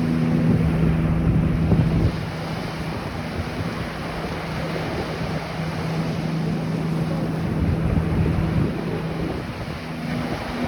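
Ocean surf washing on a beach, with wind buffeting the microphone and a steady low engine hum underneath.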